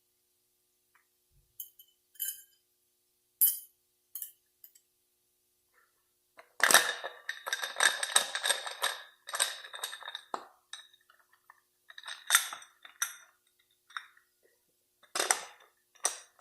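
Steel planetary gear-train parts of a 46RE automatic transmission clinking as they are handled and fitted together. A few separate clinks come first, then a dense run of clattering from about seven to ten seconds in, and more clinks near the end.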